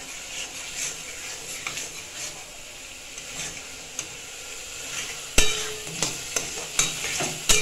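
Onion-garlic masala and potato pieces sizzling in a metal kadai with a steady frying hiss as the masala is fried down. From about five seconds in, a metal spatula scrapes and knocks against the pan several times as it is stirred.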